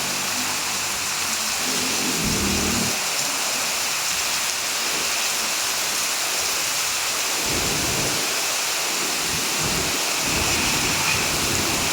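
Heavy rain falling steadily, a dense even hiss, with brief low rumbles now and then.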